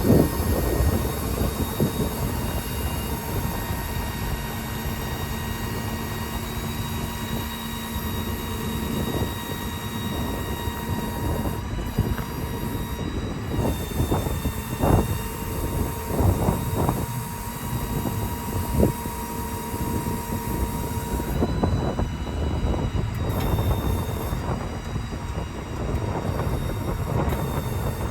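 Hydraulic service crane running off the truck's diesel-driven hydraulic system: a steady whine from the pump and valves as the boom is worked. The pitch shifts several times as the function changes, and clunks and knocks come in the middle.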